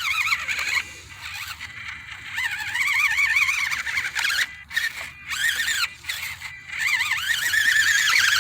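The small electric motor and gears of a 1/24-scale Enduro24 Sendero RC crawler whining high in four bursts as the throttle is worked, the pitch wavering up and down with the load.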